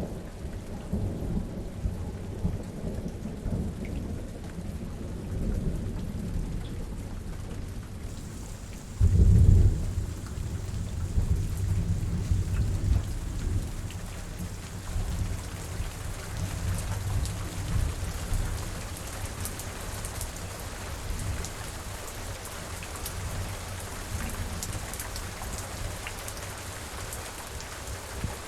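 Steady heavy rain with rolling thunder. A loud thunderclap comes about a third of the way in, and its rumble dies away over several seconds, leaving the rain falling alone.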